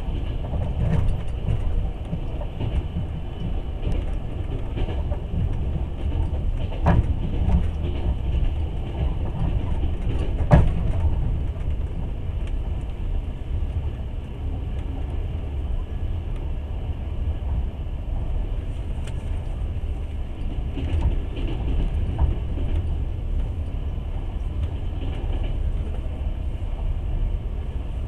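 Passenger train under way, heard from inside the carriage: a steady rumble of the wheels on the track, with a sharp knock about ten seconds in and a weaker one a few seconds before it.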